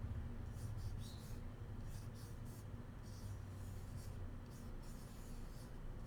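Bamboo cooking utensils scratched and rubbed close to the microphone: a run of short, irregular, dry scratching strokes over a faint steady low hum.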